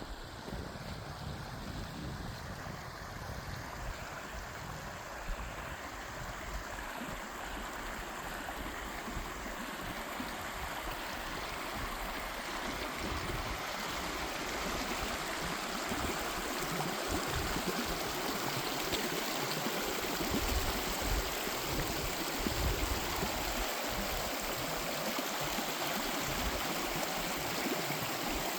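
Flowing stream water rushing steadily, growing gradually louder.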